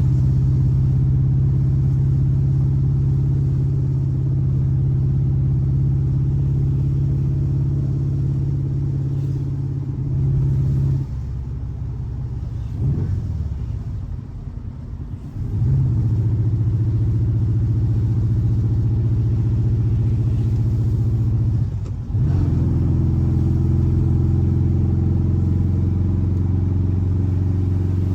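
Air-cooled 1584 cc flat-four boxer engine running at a steady speed. About 11 seconds in it drops back and briefly swells and falls in pitch. It then settles into a lower steady note, and drops to a lower one again after a short break about 22 seconds in.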